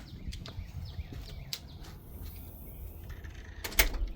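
Outdoor ambience with a steady low wind rumble and a few short bird chirps, then one sharp thump near the end.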